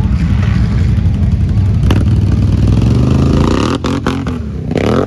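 Can-Am Renegade ATV's V-twin engine revving hard while the quad is stuck in a thick, sandy mud hole. The engine note drops away about three and a half seconds in, followed by a few sharp clattering knocks near the end.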